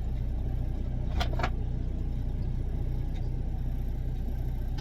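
Steady low hum of an idling semi truck's diesel engine, heard from inside the cab, with two brief clicks a little over a second in.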